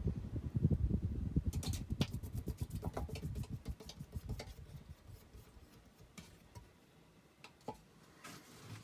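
A 52-inch Hunter Original ceiling fan winding down after being switched off from high speed: a low, rhythmic pulsing of air from the blades slows and fades away over about five seconds. Scattered light clicks come in the first few seconds.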